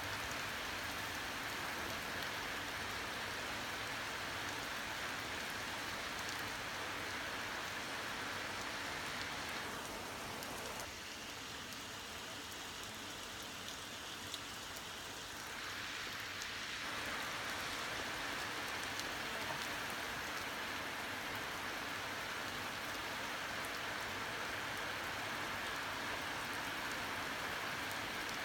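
Heavy thunderstorm rain falling steadily as an even hiss, easing slightly for several seconds midway.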